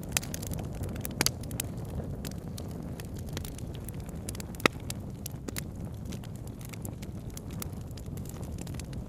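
Campfire crackling, with sharp wood pops scattered over a steady low rushing sound; the loudest pop comes about halfway through.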